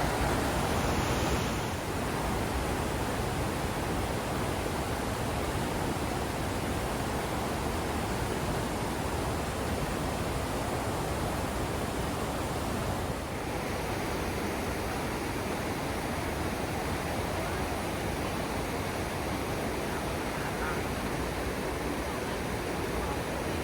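Steady rush of falling water at Iguazu Falls, a dense even noise with no pitch; its character shifts slightly about two seconds in and again about halfway through.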